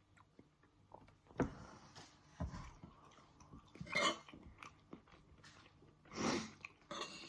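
Close mouth sounds of a person chewing and biting food, with scattered small clicks and a few louder noisy bursts.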